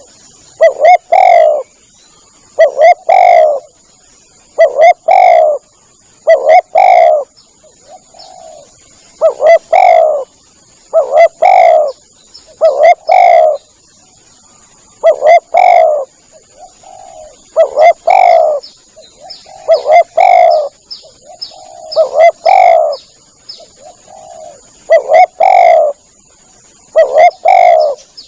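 Spotted dove cooing: a loud phrase of two or three notes repeated about every two seconds, with fainter coos and short high chirps between phrases. A faint steady high-pitched tone runs underneath.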